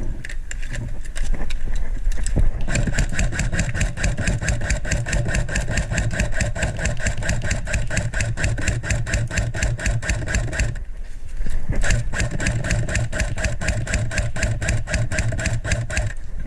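Airsoft electric gun firing on full auto: a fast, steady clatter of shots over a buzzing motor whine. It comes in two long bursts, one of about eight seconds and one of about four, with a short break about eleven seconds in.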